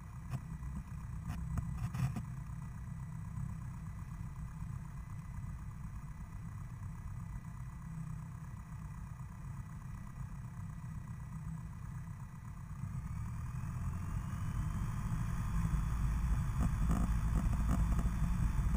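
Single-engine Cessna's piston engine idling, heard from inside the cockpit. About two-thirds of the way through the engine speeds up with a rising whine, and it grows steadily louder.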